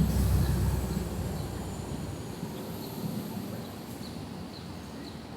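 Small birds chirping, a run of short high chirps repeating every half second or so, over a low rumble that fades away during the first two seconds.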